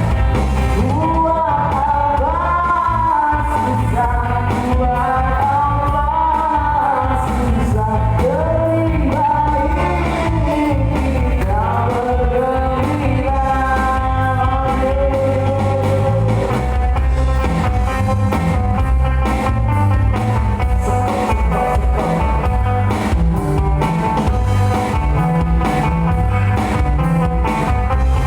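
A band playing a rock song with a sung lead vocal over bass and drums. About halfway through, the singing gives way to steadier held instrumental lines.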